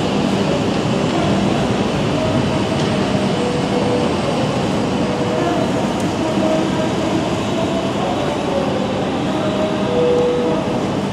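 Tohoku Shinkansen train moving at a station platform: a steady rushing noise over a low hum.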